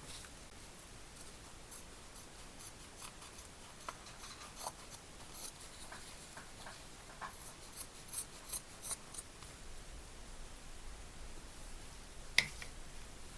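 A run of short, crisp snipping sounds from hand work, about one or two a second for several seconds, then a pause and one sharper click near the end.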